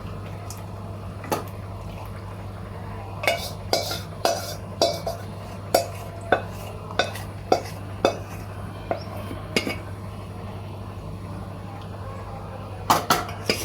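A metal spoon knocking and scraping against a cooking pot as pieces of pressure-cooked chicken are spooned into the stew: a run of sharp clinks about one every half second to second, with a few more near the end, over a steady low hum.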